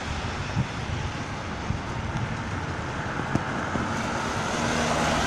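Road traffic passing on a rain-wet road, a steady tyre hiss, with a vehicle's engine hum growing louder near the end.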